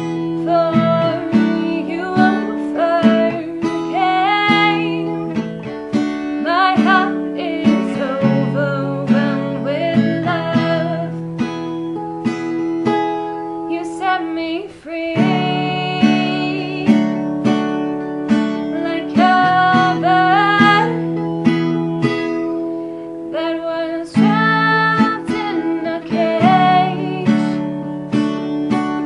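Acoustic guitar strummed in chords, with a woman singing a slow melody over it.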